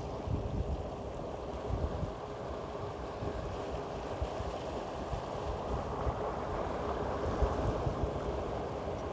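Wind buffeting the microphone over a steady low rush of water.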